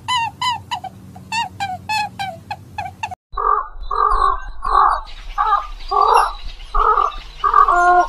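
Bird calls: a fast series of short honking calls, about two a second, breaks off about three seconds in. They give way to a series of harsh croaking calls from a flock of egrets, again about two a second.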